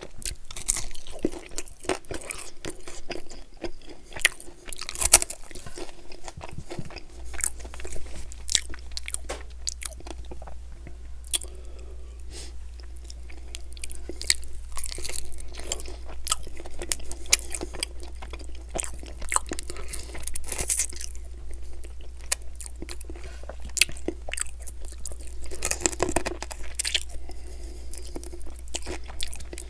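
Close-miked chewing and biting of sauced chicken wings, with irregular sharp clicks as the meat is pulled from the bone and chewed.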